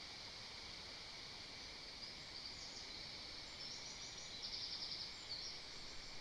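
Faint high-pitched songbird calls in the surrounding forest, including a quick trill about two-thirds of the way in, over a steady background hiss.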